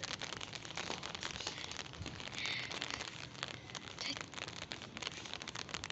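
Light rain pattering: a dense, irregular spray of small drop ticks close to the microphone.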